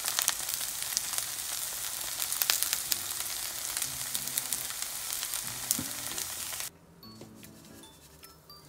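Shredded-potato pancake sizzling loudly in a frying pan, a steady hiss dotted with sharp crackling pops. The sizzle cuts off abruptly near the end, leaving soft background music.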